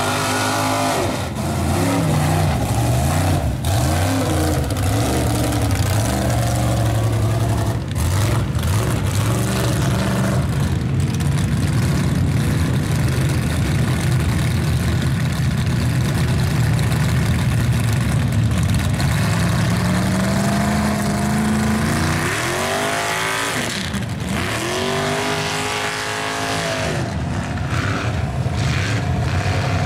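Big-engined mud trucks running hard and revving, the engine pitch rising and falling several times in the last third.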